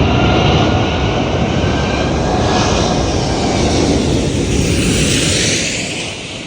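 Jet engine noise from a passing Airbus A380's four turbofans: a loud, dense rush with a faint whine that drifts slightly lower in pitch, fading away near the end as the airliner moves off.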